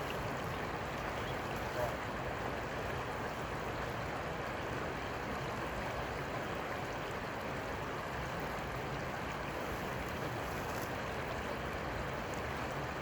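Steady rushing of water, an even noise without pitch that holds level throughout.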